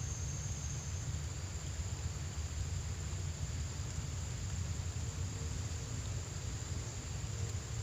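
Outdoor ambience at a ditch-side: a steady low rumble with an even hiss, and a high, thin insect drone that stops about a second in.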